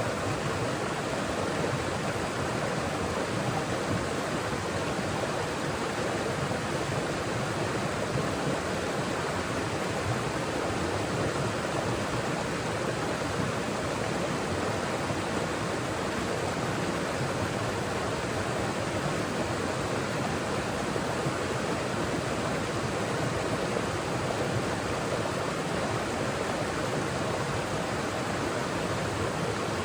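Forest stream flowing over rocks: a steady rushing and babbling of water.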